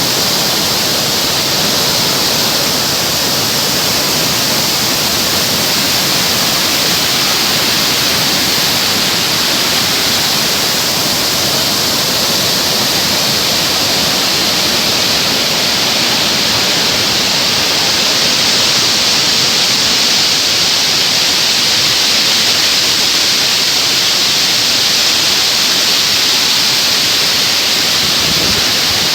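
Waterfall pouring, a loud, steady rush of falling water heard up close.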